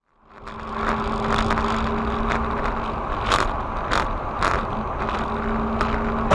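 Dashcam recording of a car on the road: steady engine and road noise with a low hum, fading in at the start. Several sharp clicks or knocks sound at irregular intervals, three of the strongest a little past the middle.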